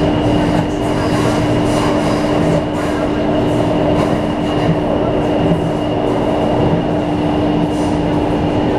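Passenger train running at a steady speed: a continuous rumble with a constant low hum and a fainter high whine.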